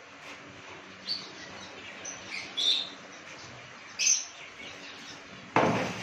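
Caged aviary birds giving a few short, high chirps, scattered over several seconds. Near the end, a louder scraping noise starts as something is handled or moved.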